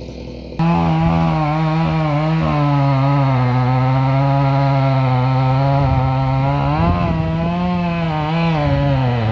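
Chainsaw engine running at high revs, cutting in abruptly about half a second in, its pitch dipping briefly a couple of times near the end.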